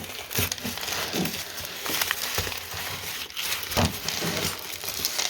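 Dry corn kernels being shelled off the ear by hand for a moisture sample: a run of irregular crackles and clicks.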